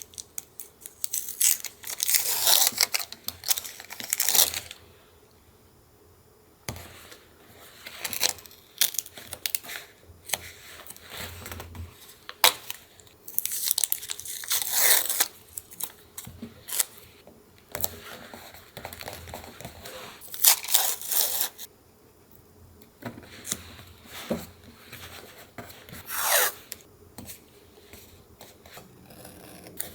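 Paper being torn by hand for collage: several long rips, each lasting a second or more, with paper rustling and crinkling in the gaps.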